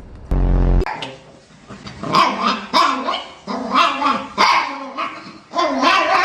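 Dog "talking": several drawn-out, howl-like vocal phrases whose pitch bends up and down, with a brief low rumble about half a second in.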